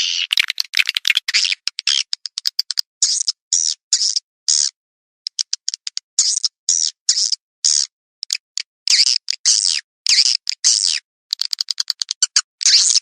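Recorded swiftlet calls: a quick series of short, high chirps and buzzy twitters separated by brief gaps, with trains of very rapid clicking at the start, about two-thirds through and near the end. It is a swiftlet-farming lure call, played to draw swiftlets into a nest house.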